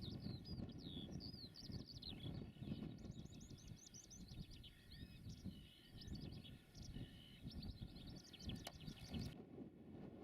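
A small songbird singing a long, fast run of high chirps and trills over a low wind rumble. The song cuts off suddenly about nine seconds in.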